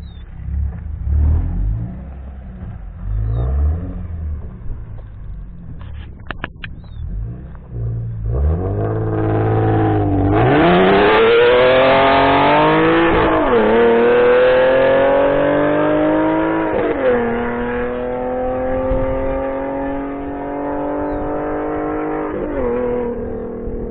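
Infiniti G37S coupe's 3.7 L V6 exhaust note through an Exotic Speed cat-back and high-flow cats, on a system with an exhaust leak. A low rumble for the first several seconds gives way, about eight seconds in, to a hard acceleration. The pitch climbs through three upshifts, each marked by a brief dip, then settles into a steadier drone.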